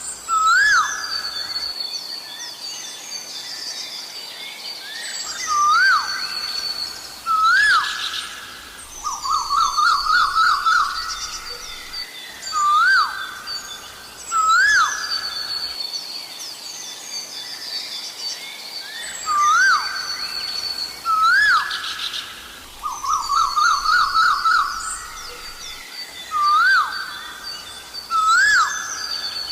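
Asian koel calling: loud hooked notes that rise and drop, repeated mostly in pairs, and twice a quick run of notes. Other small birds chirp higher and fainter behind them.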